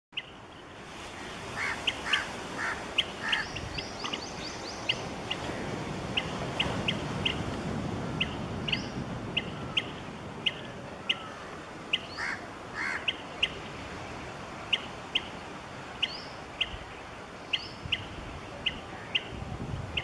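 Birds chirping: short, sharp chirps repeated irregularly, about once or twice a second, with a few longer, lower calls mixed in, over a steady background hiss.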